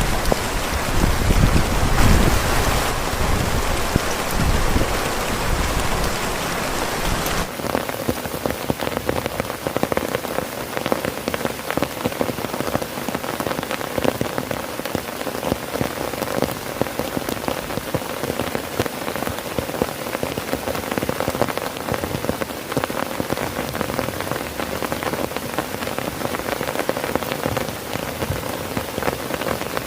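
Heavy rain drumming steadily on a tent, a dense patter of drops. For the first several seconds a low rumbling runs under the rain, then stops abruptly.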